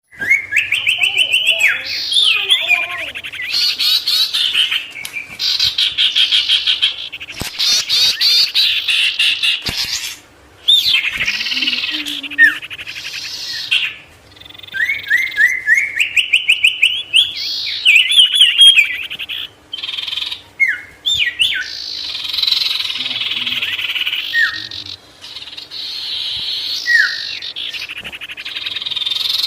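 Songbird known in Indonesia as the sirtu singing a long, varied song: rapid trills and series of fast rising chirps, mixed with short sharp down-slurred notes, in phrases separated by brief pauses.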